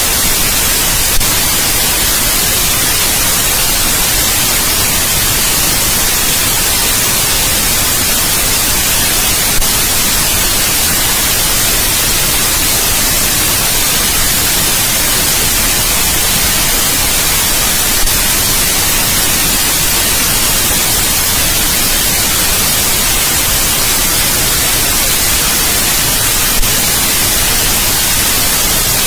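Steady, even white-noise hiss for baby sleep, strongest in the high end and unchanging in level. Brief faint clicks come about every eight to nine seconds.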